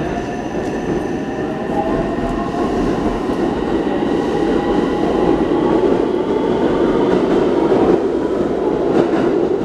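Train running along the station platform, steadily growing louder, with a faint whine over the rumble of wheels on the track.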